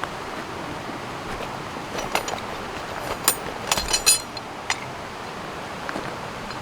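Steady wash of rain and a flowing river, with a handful of sharp metallic or glassy clinks between about two and four seconds in.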